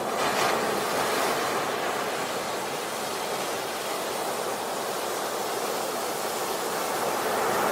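Sea waves breaking on a beach: a wave breaks about half a second in and its wash runs on as a steady hiss, and the next wave starts to break near the end.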